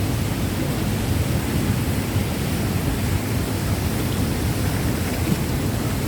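Waterfall pouring into its pool: a loud, steady rush of falling water, deepest in the low range, with no breaks.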